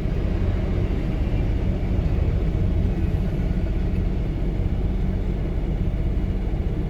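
Steady low rumble of an intermodal freight train's spine cars rolling slowly past.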